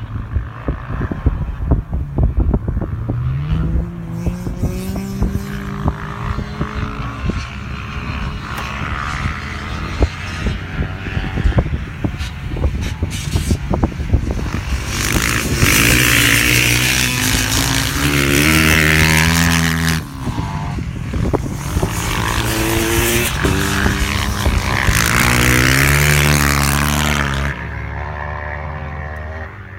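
Dirt bike engines racing on ice. An engine revs up early on. Two bikes then pass loudly, each climbing through the gears in rising steps of pitch, with wind buffeting the microphone.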